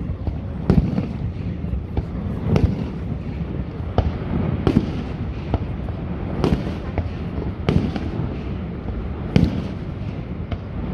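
Aerial fireworks shells bursting in a display, about seven sharp bangs in ten seconds, one every second or two, with a low rumbling echo between them.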